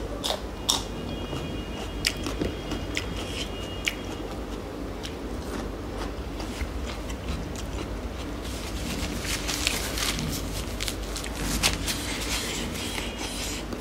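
Close-miked eating sounds: chewing and biting with sharp, crisp crunching clicks, which come thickest for a few seconds past the middle.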